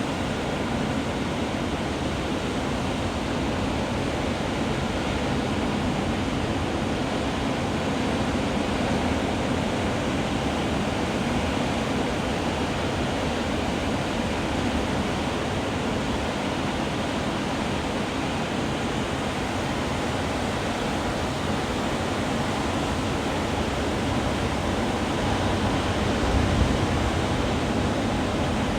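Atlantic surf breaking on the beach, heard as a steady, continuous wash of waves, with a brief louder low rumble near the end.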